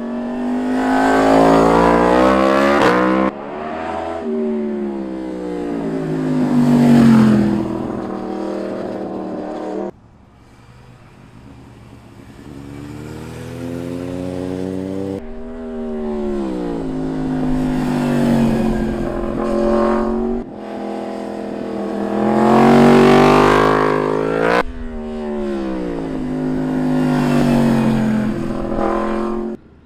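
Street motorcycles riding past one after another, their engines revving up and dropping back as they accelerate and shift through the gears. The sound jumps abruptly several times, as one pass cuts straight to the next.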